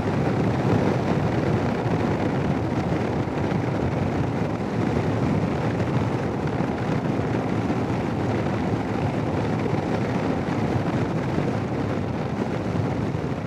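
Steady wind rush over the Sena 10C Evo helmet intercom microphone while riding a Royal Enfield Himalayan motorcycle, with engine and road noise underneath.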